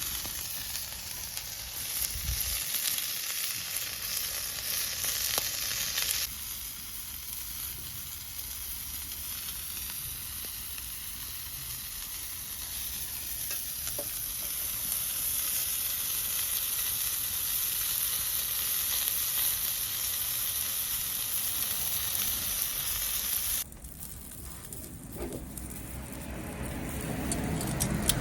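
Food frying and sizzling in a pan over a campfire, a steady hiss that changes abruptly about six seconds in and again near the end.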